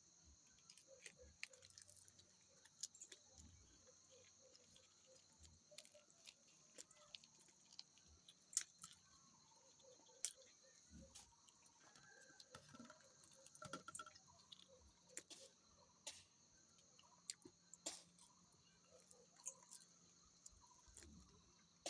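Faint steady high-pitched insect drone with scattered small clicks and taps throughout.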